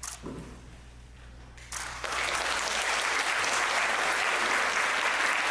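The last of the dance music fades out, and about two seconds in an audience breaks into steady applause.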